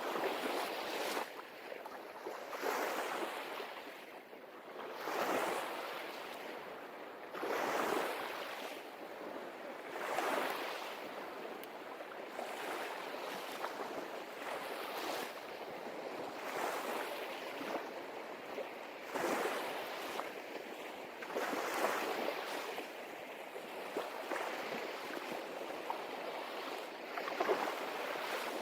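Sea surf on a beach, waves breaking and washing in, swelling and fading every two to three seconds.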